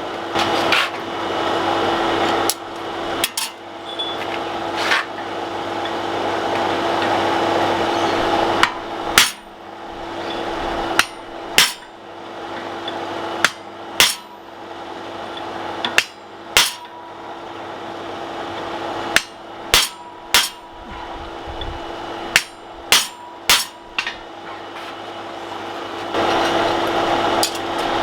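Hand hammer driving a steel drift into the hot eye of a small forged axe head: separate sharp metal-on-metal strikes, one every second or two, often in quick pairs, over a steady hum.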